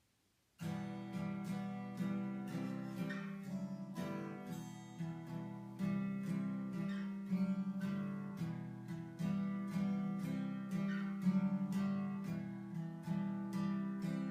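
Acoustic guitar intro, strummed in a steady rhythm, starting about half a second in.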